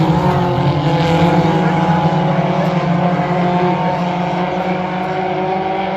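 Several dirt-track race car engines running together on the oval, their pitches rising and falling against each other as the cars circle. The sound eases slightly toward the end.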